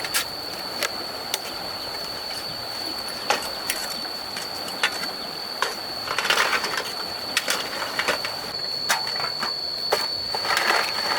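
Scattered sharp clicks and knocks over a steady high-pitched tone, with bursts of rustling noise about six seconds in and again near the end.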